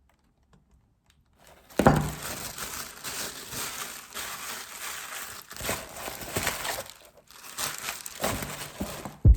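Crinkling and rustling that starts suddenly with a knock about two seconds in, goes on unevenly with a brief pause around seven seconds in, and ends with another knock.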